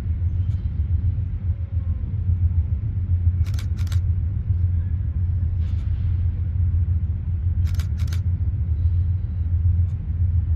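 DSLR shutter firing, a Canon EOS Rebel T7 taking two quick pairs of shots about four seconds apart, over a steady low rumble.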